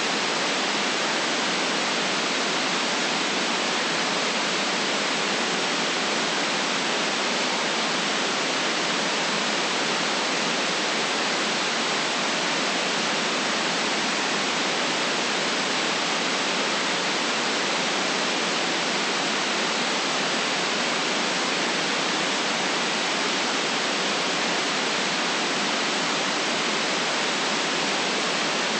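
Steady white noise: an even, unchanging hiss with no deep bass and no separate sounds in it.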